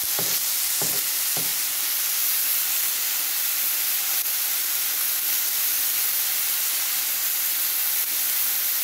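Chicken tenders frying in a pan: a steady sizzle.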